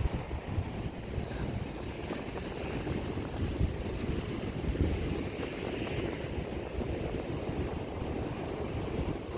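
Ocean surf breaking on a sand beach: a continuous deep rumble of waves, swelling and easing, with wind buffeting the microphone.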